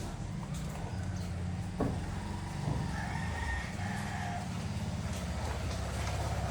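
A loft full of pigeons cooing: a dense, pulsing low cooing that runs on, with a few sharp knocks and a higher drawn-out call around the middle.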